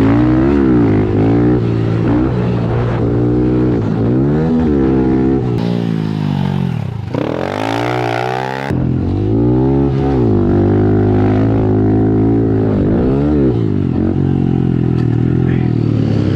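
110cc single-cylinder four-stroke pit bike engine at race pace, its pitch rising and falling again and again as the throttle opens and closes through the corners. A noisier rushing stretch comes around the middle.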